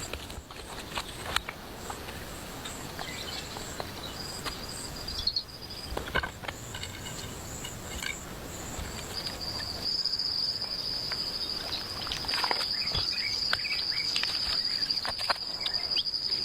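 Insects trilling at one steady high pitch, which comes in briefly and then holds from about halfway through, over scattered clicks and knocks.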